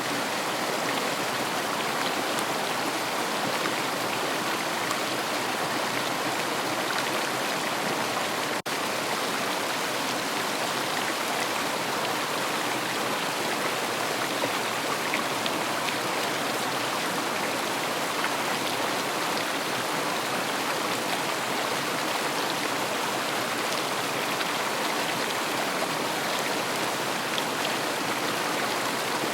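River water flowing and rushing steadily, an even, unbroken wash of water noise with a momentary dropout about eight and a half seconds in.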